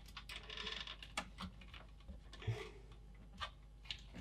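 Irregular light clicks and taps of small plastic parts being handled and fitted into a plastic computer case, with two short scraping rustles, about half a second in and about two and a half seconds in.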